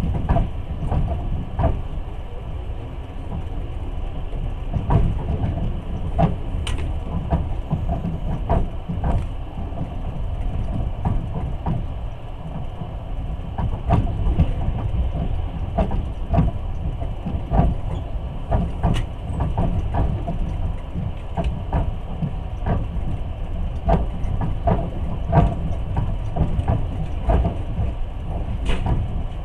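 Passenger train running at speed, heard from inside the carriage: a steady low rumble with the wheels clicking and knocking over rail joints several times a second.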